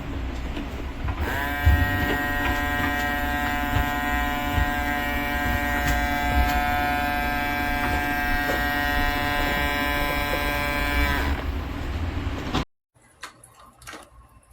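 Small electric water pump of a toy play sink running with a steady buzz. It starts about a second in and stops after about ten seconds.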